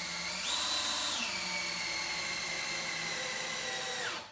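Cordless drill driving a long screw into wood: the motor whine jumps up in pitch about half a second in, drops back and sags slowly under load, then stops just before the end.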